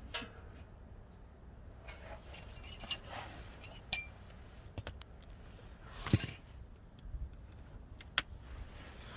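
Metal tools and exhaust hardware clinking and knocking against each other during work on the exhaust: a few separate sharp, ringing clinks, the loudest about six seconds in.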